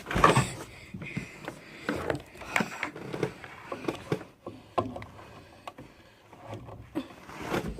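Irregular clicks, taps and rustling of equipment being handled while a cord is plugged in.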